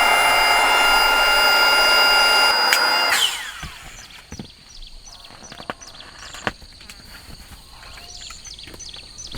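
A small electric motor running steadily at a high whine, then switched off about three seconds in and winding down with a falling pitch; after that, scattered light clicks and knocks.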